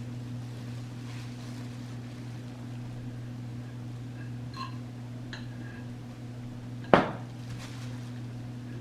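Kitchenware being handled: a few faint light clicks, then a single sharp knock about seven seconds in, like something set down hard on a plate or counter. A steady low hum runs underneath.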